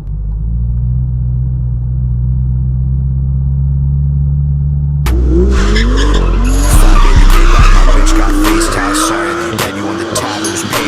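BMW E92 M3's S65 V8 engine running with a steady, muffled low drone. About five seconds in it cuts abruptly to a louder, full-range sound with short rising pitch sweeps repeating about twice a second over a deep steady bass.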